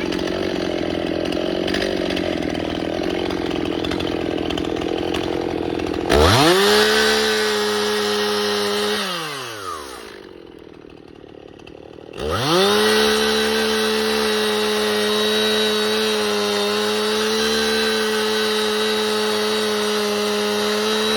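Two-stroke chainsaw running, with a lower, rougher note for the first six seconds. It then revs sharply to full throttle, drops back to idle around nine to ten seconds in, and revs up again at about twelve seconds, held steady at high revs.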